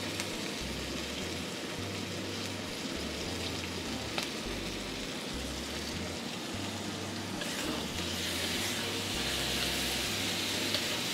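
Chicken pieces sizzling in a wok as sweet dark caramel sauce is poured in and stirred through with a metal wok spatula. The sizzle is steady, with a couple of light clicks, and grows louder and hissier about two thirds of the way through.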